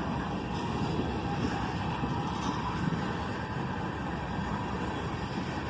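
Long freight train's cars rolling past close by: a steady rumble of steel wheels on the rails.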